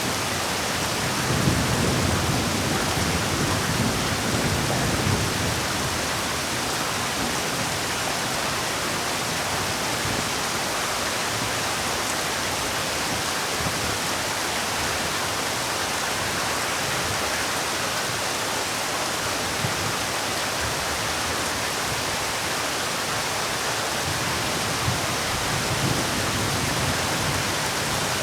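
Heavy rain falling steadily, a dense even hiss, with low rumbling swells in the first few seconds and again near the end.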